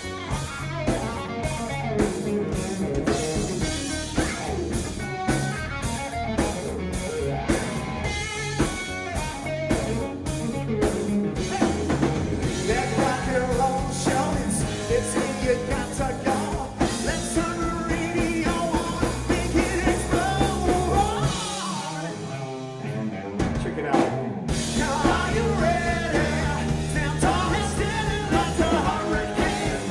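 Live rock band playing with drum kit and electric guitar at a steady beat. About twenty-two seconds in, the bass and drums drop out briefly, then the full band crashes back in.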